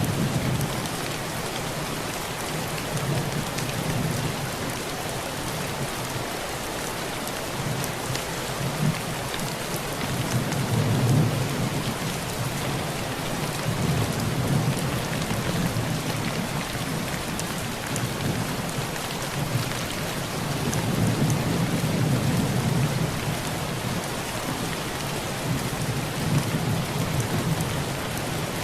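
Heavy rain drumming on a tin roof, a dense steady patter of drops, with thunder rumbling low in the background. The thunder swells and fades several times and is loudest about a third of the way in.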